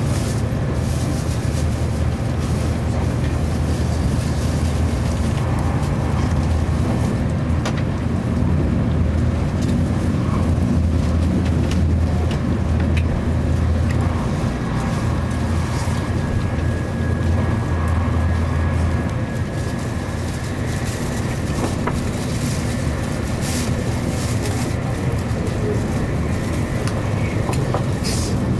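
Steady cabin running noise of a Nozomi Shinkansen bullet train at high speed, heard from inside the car: a deep rumble under a constant hiss of wheels and air as the train accelerates past about 180 to 210 km/h. The deep rumble eases somewhat about two-thirds of the way through.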